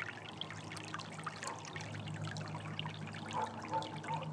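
Water trickling and splashing in many small irregular drops, with a steady low hum underneath.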